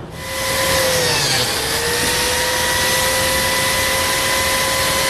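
Biscuit joiner (plate joiner) starting up and running with a steady high whine, its pitch dipping briefly about a second and a half in as it cuts a slot.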